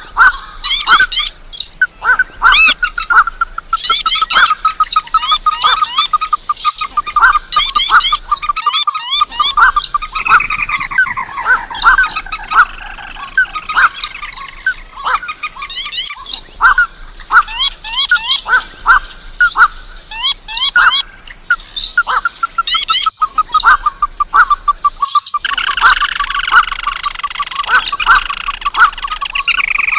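Bird-lure playback of marsh and paddy-field rails (swamphens, crakes, waterhens and watercock) calling together, in fast runs of repeated notes that overlap one another. The sound cuts out briefly twice, where recordings are spliced.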